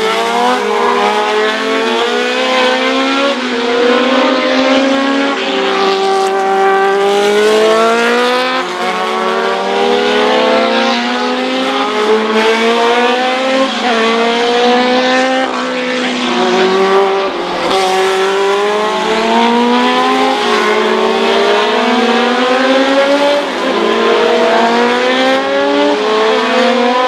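Race car engines at high revs, accelerating through the gears: each engine note climbs in pitch and then drops back at every upshift, every couple of seconds. Several cars overlap as they pass in a steady, loud stream.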